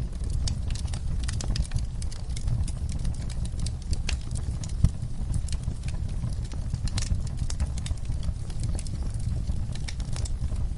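Wood fire in a fireplace crackling, with irregular sharp pops and snaps over a low steady rumble of the flames; one pop stands out about halfway through.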